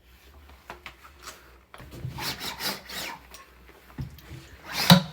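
Rubbing and scraping of something being handled, with a few light clicks early on, a scraping stretch in the middle, and two knocks near the end, the second one louder.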